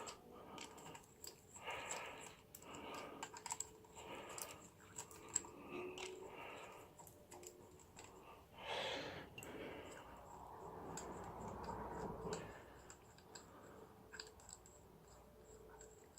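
Faint irregular clicking and light metal scraping of hand tools undoing the clutch cover's 10 mm bolts.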